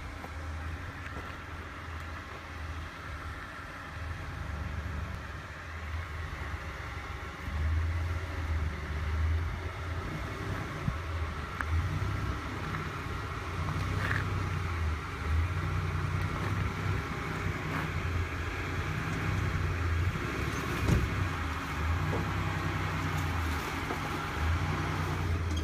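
Mitsubishi Pajero's engine running at low revs as the 4x4 crawls over rock ruts, its low rumble swelling and easing in short pulses as the throttle is fed on and off.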